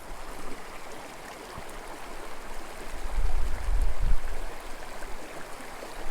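Small mountain creek flowing: a steady rush of water. A low rumble swells about three seconds in and dies away after about four seconds.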